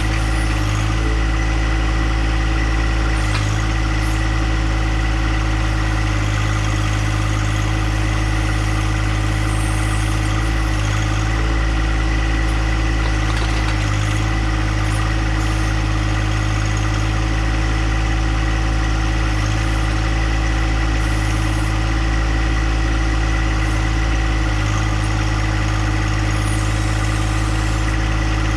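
John Deere compact tractor's engine running at a steady speed, with no change in pitch.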